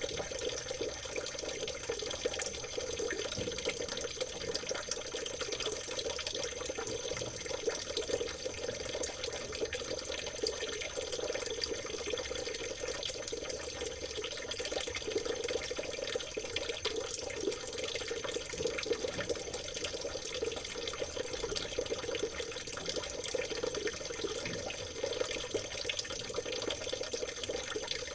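Water of a small stream babbling steadily, a continuous trickle with a dense patter of small splashes.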